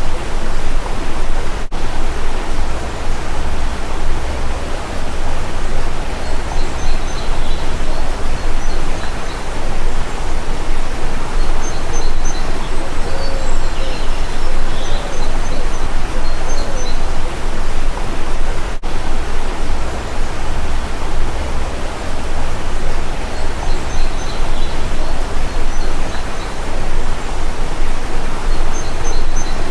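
Steady, loud rushing of a stream, with faint bird chirps and a few soft dove-like coos over it. Two brief dropouts break the sound.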